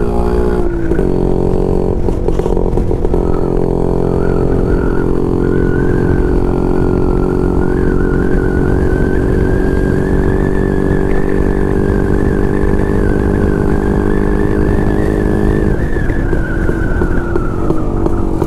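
Yezdi CL II motorcycle's 250 cc single-cylinder two-stroke engine running at a steady cruising speed while ridden. Its note holds even, then the revs drop a little near the end as the throttle eases.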